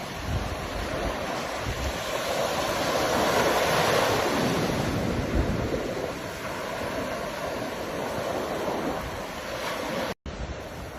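Ocean waves breaking and washing in, swelling to a peak about four seconds in and then easing off, with a split-second dropout in the sound near the end.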